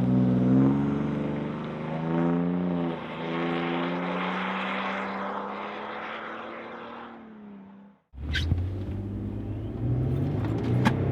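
Toyota Tundra's 3.4L twin-turbo V6 heard through a Flowmaster American Thunder cat-back exhaust with a 50 HD series muffler. The engine revs with its pitch rising and falling, then holds a steady note while fading. About eight seconds in it cuts off abruptly, and the engine is then heard running again at a lower pitch.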